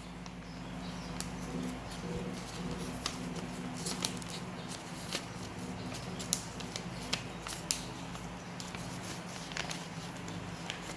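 Paper rustling and crinkling as it is handled, with scattered small sharp crackles, over a steady low hum.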